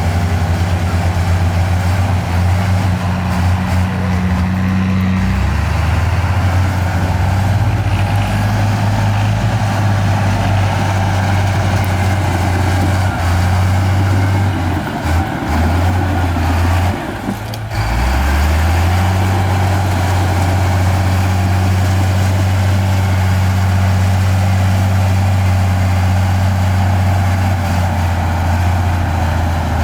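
Diesel engine of heavy earthmoving machinery running steadily and loudly. About fifteen seconds in it falters and dips for a moment, then settles back into a steady run at a slightly different pitch.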